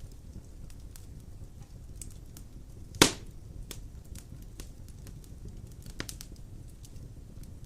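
Wood fire of large logs burning in a stone fireplace: a steady low rumble with scattered light crackles, one loud sharp pop about three seconds in and a smaller pop about six seconds in.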